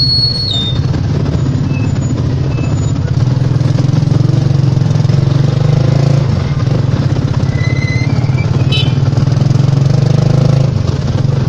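Motorcycle engine of a tricycle (motorcycle with sidecar) running under way, heard from inside the sidecar. Its pitch rises and falls a couple of times as the rider speeds up and eases off.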